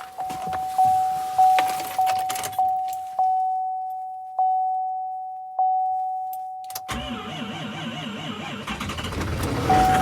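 Duramax diesel pickup's dash warning chime dinging repeatedly, speeding along at first and then slowing to about one ding a second. About seven seconds in, the starter begins cranking the cold-soaked diesel at −23° in a hard cold start.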